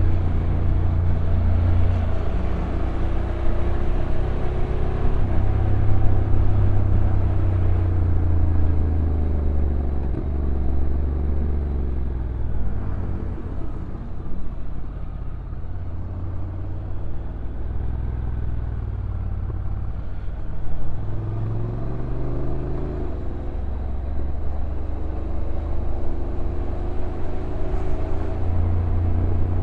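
Honda NC750X DCT's parallel-twin engine running on a downhill ride, its pitch falling and rising again several times as speed changes, over a steady rush of wind and road noise.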